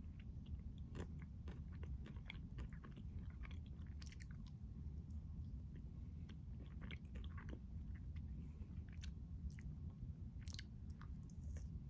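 Close-miked chewing of a chocolate-coated keto ice cream crunch bar: crisp crunches and wet mouth clicks come irregularly throughout, over a steady low hum.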